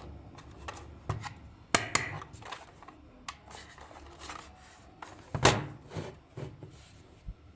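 Hand-work noises: scattered small clicks, taps and rubbing of hard objects being handled, with two louder knocks, one a little under two seconds in and one about five and a half seconds in.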